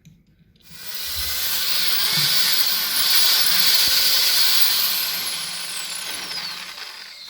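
Electric drill boring into a cement planter to take wall plugs for caster screws: a steady, hissing grind that starts about half a second in and eases off near the end.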